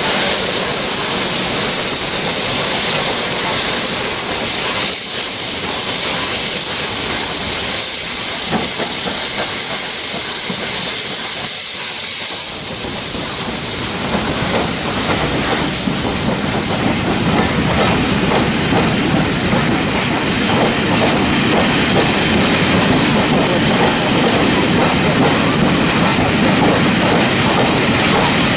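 Steam hissing loudly and steadily from the Peppercorn A1 Pacific steam locomotive 60163 Tornado. The high hiss eases in the second half as a lower rumble of the train comes up.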